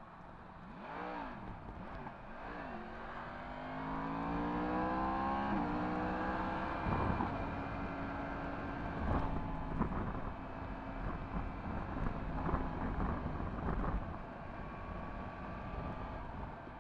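Yamaha MT-10 SP's crossplane inline-four with an Akrapovic exhaust: two quick throttle blips early on, then the engine pulls up in pitch under acceleration and drops at a gear change about five seconds in. It then runs steadily at part throttle, with a few short sharp cracks and a low rumble of wind and road noise.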